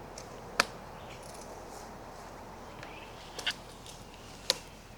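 Three short, sharp clicks, about half a second in, around three and a half seconds in and near the end, over a faint steady outdoor background.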